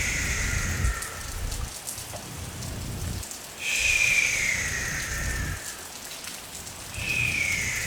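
Steady rain ambience. About every three and a half seconds a falling tone sounds over it, each time with a low rumble, three times in all.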